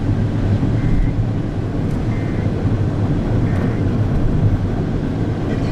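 Steady low rumble of a vehicle driving, road and engine noise with no clear changes, with a few faint short tones above it.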